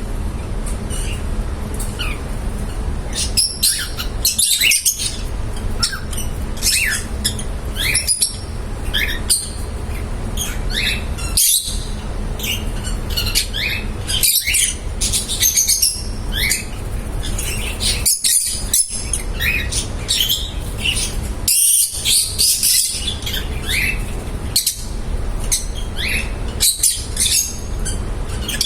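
Lovebirds chirping and squawking in quick, overlapping high calls that keep up throughout, over a steady low hum.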